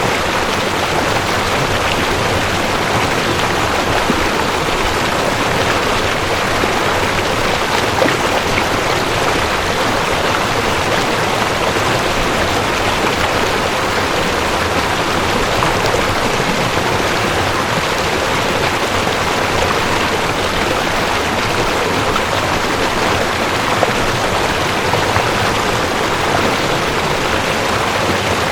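Mountain stream rushing steadily over rocks, a constant, even water noise with small splashes and gurgles.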